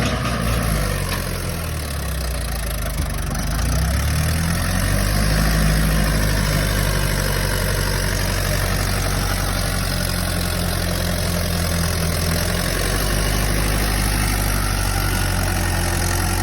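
Mahindra 585 tractor's diesel engine running, its pitch shifting over the first few seconds, then idling steadily.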